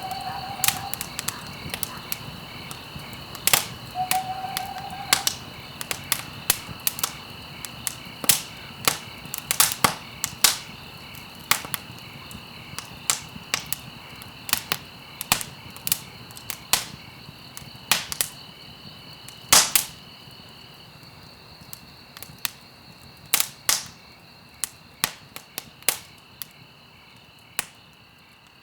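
Campfire crackling, with frequent sharp pops and snaps over a low rushing bed, and a steady high chirring of crickets. A short low call sounds twice in the first five seconds.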